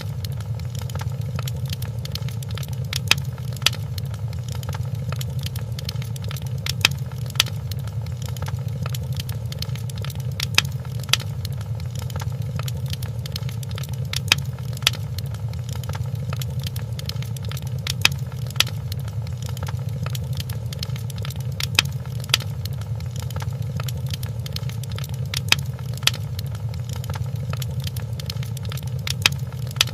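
Fireplace crackling: a steady low rumble of flames with sharp wood pops that come in pairs, repeating evenly about every four seconds.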